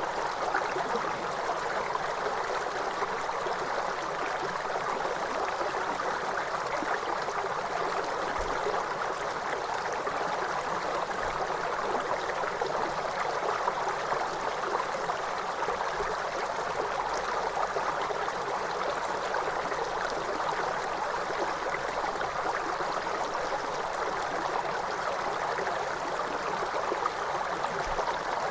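A waterfall: falling water rushing and splashing in a steady, unchanging wash of sound.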